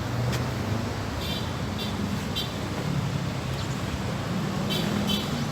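Road traffic: a steady rumble of vehicle engines passing on a street, with a few faint light ticks over it.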